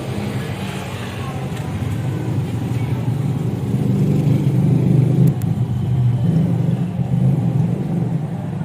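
A motor vehicle engine running steadily, growing somewhat louder around the middle.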